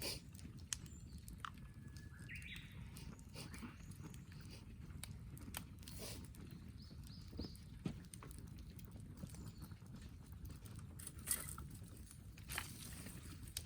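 Wood campfire crackling, with scattered sharp pops and snaps over a low steady background, and a short rising call about two and a half seconds in.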